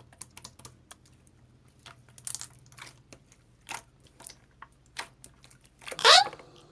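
Slime being squished and pressed by hand, giving irregular small crackling clicks and pops. Near the end comes a short rising vocal squeal.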